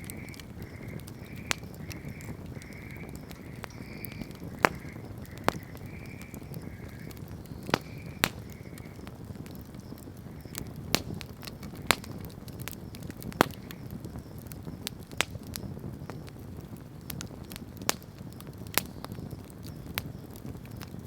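Wood campfire burning with a steady low rush, broken by sharp crackles and pops at irregular moments, about a dozen of them louder than the rest. A faint, high repeated call, about two a second, runs along with it and stops about 9 seconds in.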